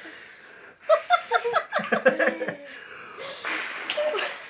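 Laughter in short choppy bursts. Before and after it comes a long breathy whoosh of air blown hard at close range.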